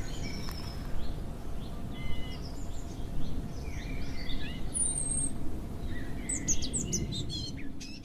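Wild birds chirping and calling, with many short overlapping calls and one high, downward-sliding whistle about five seconds in, over a steady low rumble of outdoor background noise.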